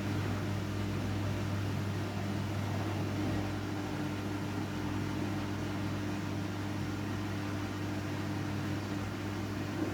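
Washing machine running with a steady motor hum, blankets inside.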